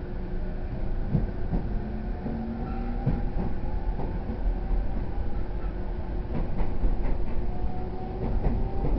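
Inside an E231-0 series electric train running: a steady rumble and faint motor whine that creeps slightly upward in pitch as the train picks up speed. Rail-joint clicks become more frequent toward the end.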